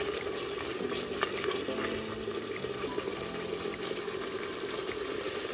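Thick onion-tomato masala sizzling in oil in a steel pot while a wooden spoon stirs and scrapes through it, with a few light taps of the spoon. The oil is separating from the paste, the sign that the masala is fully fried.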